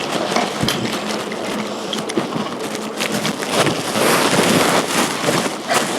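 Rain pattering, with scattered sharp ticks of drops striking close by; the pattering grows louder about three and a half seconds in.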